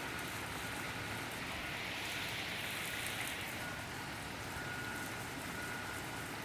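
Steady rain, an even hiss that swells slightly a couple of seconds in and then settles.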